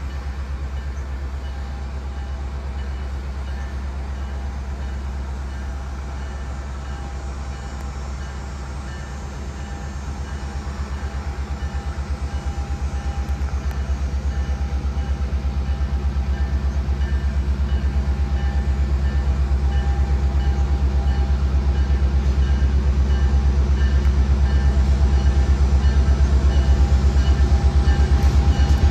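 Diesel locomotives of a freight train, EMD GP38 units, running with a deep, pulsing engine rumble that grows steadily louder from about a third of the way in as they draw nearer.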